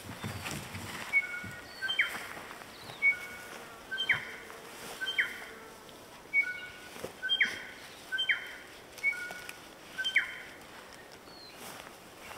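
A songbird singing: short, clear whistled notes at a few different pitches, some with quick slides, in phrases repeated roughly once a second.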